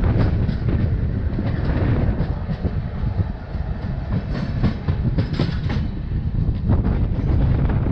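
LHB passenger coach running at speed: a steady low rumble of the wheels on the track, with sharp clicks and clatter as the wheels pass rail joints, a few in quick clusters.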